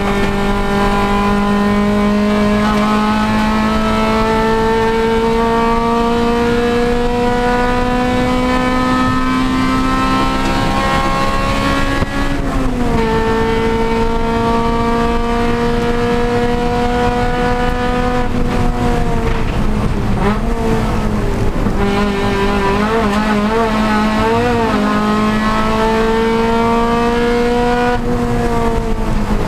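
Honda Civic Si race car's four-cylinder engine under load, climbing slowly in revs for about twelve seconds before a sharp drop at a gear change. It pulls up again, then falls and wavers for several seconds, and climbs once more to another drop near the end.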